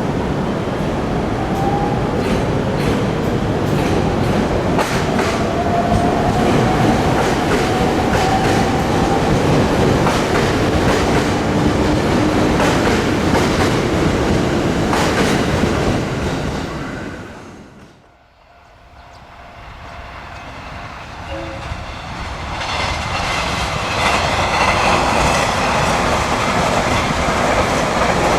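A passing train running with wheels clacking over rail joints, with a rising motor whine, that fades out about two-thirds of the way through. Another train's running noise then builds up loud again.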